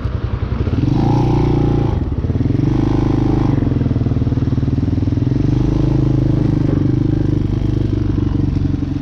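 Hawk 250 dirt bike's single-cylinder engine pulling away under throttle. It rises in pitch about a second in, dips briefly at a gear change near two seconds, rises again, then settles into a steady cruise.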